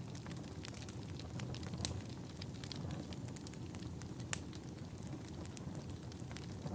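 Wood fire burning in a fireplace: a steady low rumble of flames with scattered crackles and pops, the sharpest about four seconds in.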